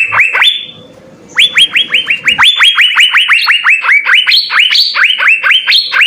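Asian fairy-bluebird (cucak biru) singing a fast run of sharp, upward-sweeping whistles, about four to five a second. The run breaks off briefly just after the start and picks up again about a second later.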